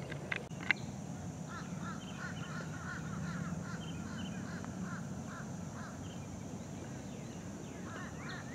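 A bird calling over and over in a string of short calls for several seconds, above a steady low background noise. Two sharp clicks come in the first second.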